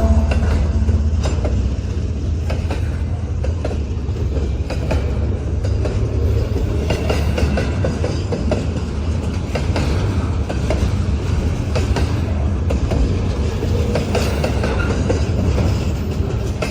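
Freight train cars rolling past: a steady low rumble, with wheels clicking over the rail joints.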